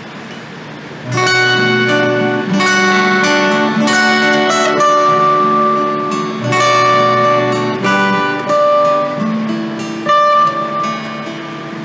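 Live acoustic guitar playing an instrumental passage of a song, quiet at first and then picked and strummed notes ringing from about a second in, easing off near the end.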